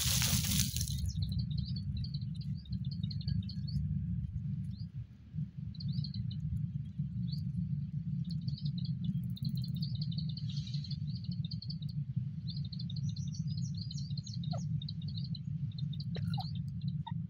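Rapid, high, short chirps of small birds over a steady low rumble. At the start, a brief burst of rustling as a francolin flicks dust over itself while dust-bathing.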